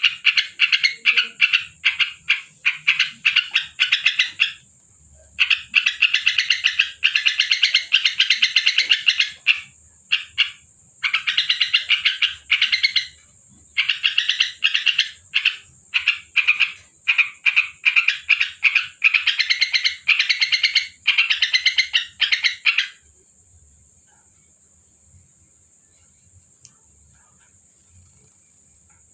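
Trucukan (yellow-vented bulbul) singing: bursts of fast, chattering, bubbling notes with short pauses between them. The song stops near the end, leaving only a faint background.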